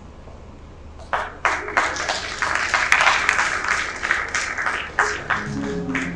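Audience applauding, starting abruptly about a second in and lasting about five seconds.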